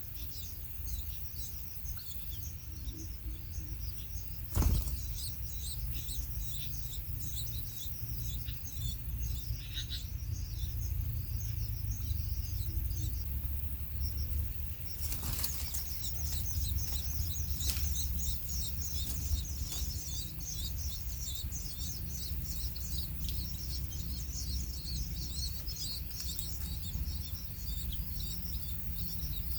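Many small birds chirping in quick, high notes, growing denser about halfway through, over a low rumble. A sharp thump about four and a half seconds in, the loudest moment, and another knock around fifteen seconds.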